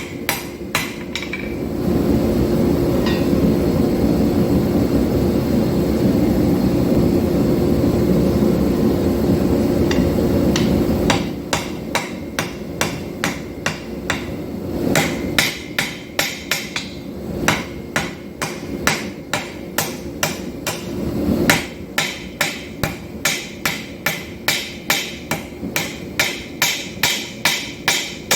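Hammer blows on hot 5160 steel over an anvil, ringing, at roughly two a second through the second half. For several seconds before that, a steady roar from the forge.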